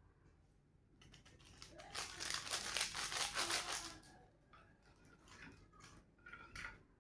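Crinkling and rustling of a packet of Cerelac cereal powder as a spoonful is scooped out, loudest for about two seconds in the middle, followed by faint clicks.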